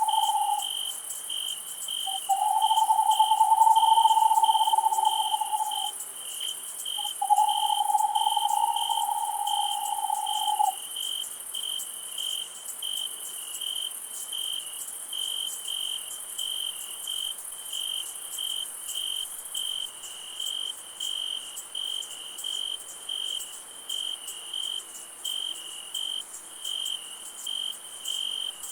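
Night chorus of crickets chirping in a steady pulse, about two chirps a second, over a high, continuous insect hiss. In the first ten seconds three long, level calls of a few seconds each sound lower in pitch and louder than the crickets, then stop.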